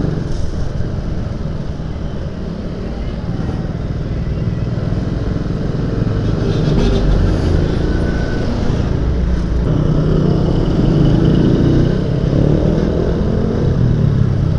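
Euro Marvel 130i motorcycle engine running as the bike rides at low speed through traffic, its pitch rising and falling a little with the throttle, over steady road and traffic noise.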